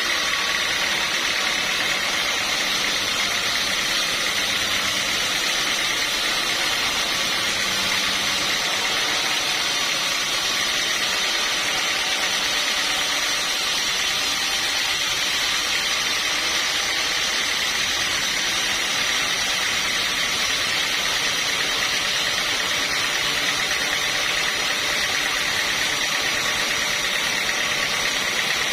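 Sawmill machinery running steadily, with an even mechanical noise and a constant high whine that neither rises nor falls.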